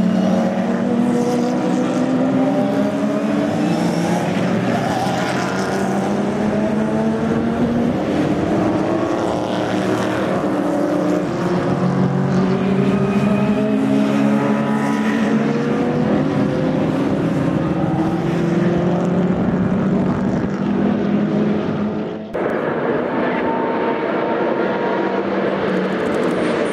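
GT3 race cars on open exhausts going by at speed, their engine notes gliding up and down as they pass and shift. The sound breaks off abruptly about 22 seconds in, and another race car engine follows.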